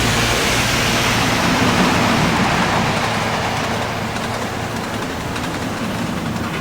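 A train running along its track: a steady rushing noise with a low hum that slowly fades away.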